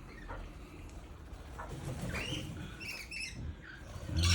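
Wild birds chirping, a string of short calls that rise and fall in pitch, bunched together in the middle.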